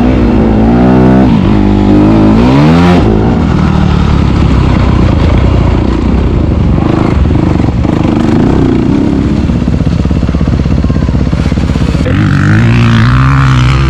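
Four-stroke motocross bike being ridden hard, its engine pitch swinging up and down through the first few seconds. It then runs rougher and noisier for a stretch and revs up again near the end.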